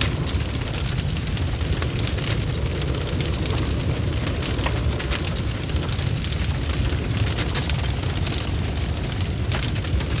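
Bonfire crackling, with frequent sharp snaps and pops over a steady low rumble.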